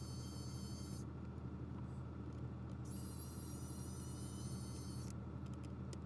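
Steady low electrical hum with a faint high-pitched whine that cuts out twice; no distinct handling or mechanical sounds.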